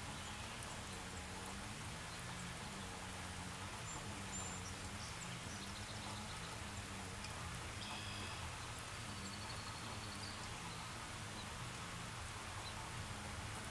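Steady hiss of light rain, with a low hum that wavers up and down in a slow regular pattern and a few faint high bird-like chirps in the middle.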